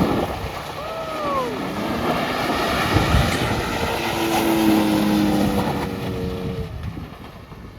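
Car engine revving hard as the car spins a donut, its pitch swinging up and down and then holding high. It fades near the end as the car pulls away, with wind buffeting the microphone.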